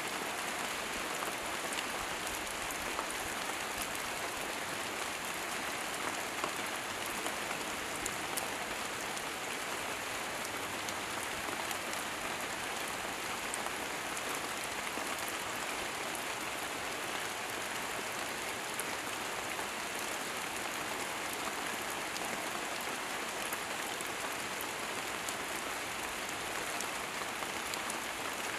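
Steady rain falling on dense, wet foliage: an even hiss flecked with the ticks of single drops, with no change throughout.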